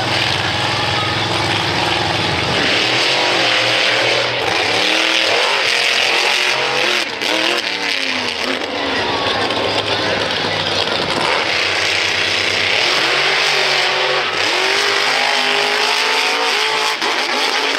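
Monster truck engine revving up and down again and again, its pitch rising and falling every second or so.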